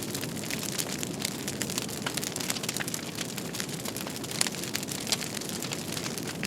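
Fire crackling, with many small irregular pops and snaps over a steady low rush.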